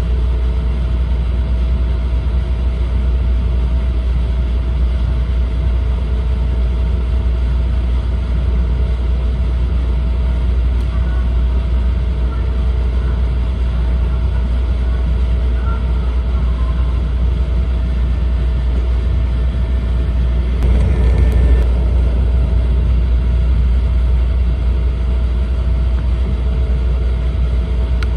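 Steady low rumble of an E4 series Max Shinkansen running at speed, heard from inside the passenger cabin, with a steady mid-pitched hum over it. About twenty seconds in, the noise briefly swells louder for a second or two.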